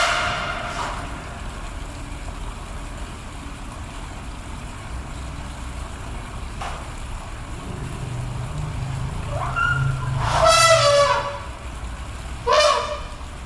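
Asian elephants trumpeting: a loud call right at the start, a low rumble from about eight seconds in that leads into a long, loud trumpet around ten to eleven seconds, and a shorter trumpet near the end.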